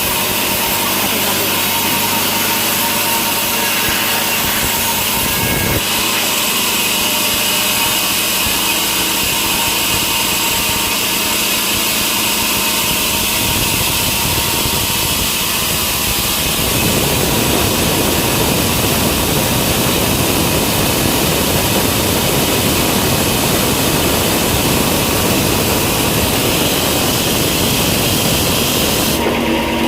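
Sawmill machinery running loudly and steadily, with a rougher, fuller noise setting in a little past halfway.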